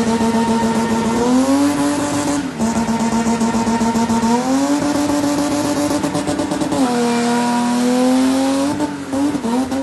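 A car engine held at high revs while the car is spun or drifted. Its pitch holds steady and steps up and back down three times, over the steady hiss and squeal of spinning tyres.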